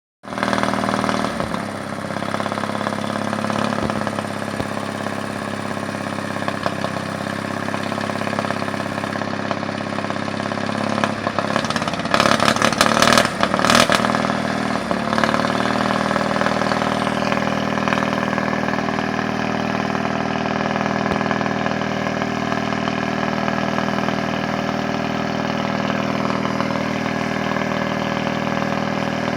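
1957 Caterpillar D8 crawler tractor's diesel engine running during start-up. It gets louder and rougher for a couple of seconds about twelve seconds in, then settles into a steady idle.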